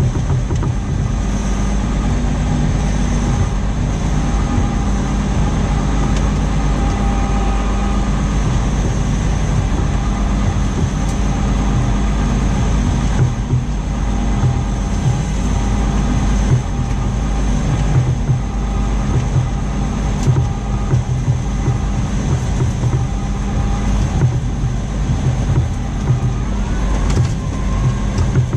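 Farm tractor engine running steadily under load while pulling a plough, with a constant drone and a thin high whine, and light rattles and knocks here and there.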